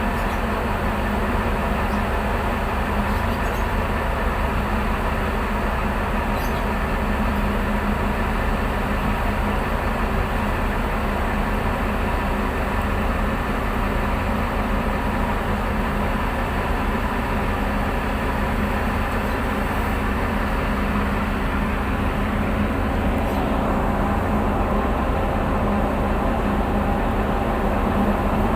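Tugboat's diesel engines running steadily: a loud, even drone with a constant low hum.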